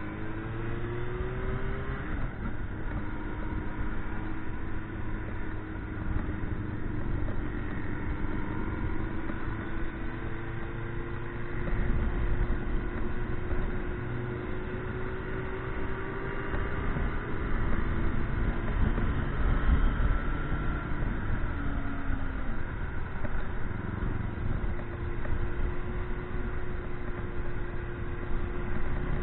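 Motorcycle engine running under way, its pitch slowly rising and falling with changes of speed, over a steady low rumble of wind and road noise that swells twice.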